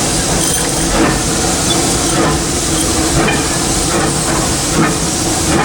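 Steam locomotive running, heard from inside its cab: a loud, steady hiss of steam.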